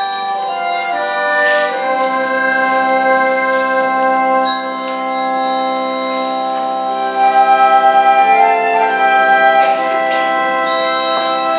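Organ playing a slow instrumental piece in sustained chords, with a fast wavering tremolo on held notes in the second half.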